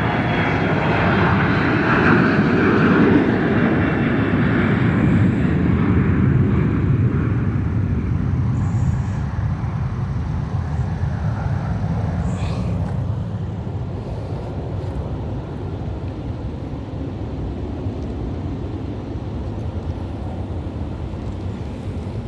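Jet airliner's engines at high power as the aircraft passes, loudest in the first several seconds, then slowly fading into a lower rumble.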